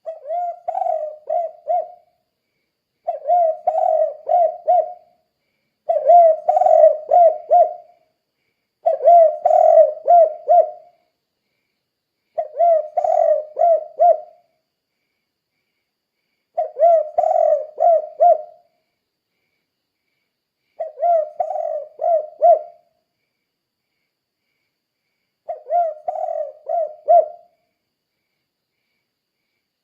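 Spotted dove (tekukur) cooing its 'kuk 2' song: eight phrases of four to five low coos, each phrase about two seconds long, repeated after short pauses, with silence near the end.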